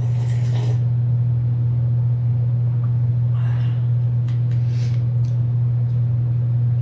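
A loud, steady low hum, with three short hissy sounds: at the start, about three seconds in, and around four to five seconds in.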